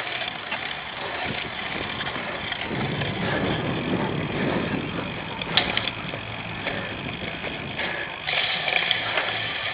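Cyclocross bike being ridden hard over rough ground: steady rattle and rolling noise from the frame, drivetrain and tyres, with a sharp click about halfway through, heard from a camera mounted on the bike.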